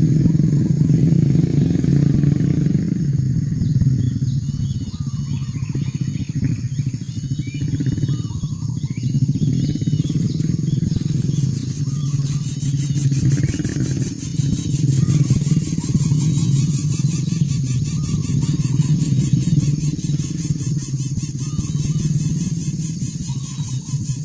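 A steady low engine drone with small, repeated high chirps over it.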